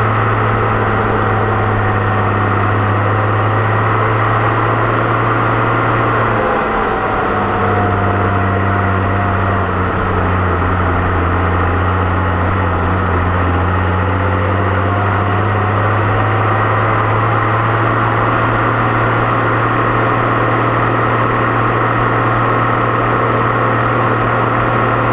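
Deutz-Fahr 6.61 tractor's diesel engine running steadily at a low, even pitch, with a brief dip and slight change of engine speed about seven seconds in.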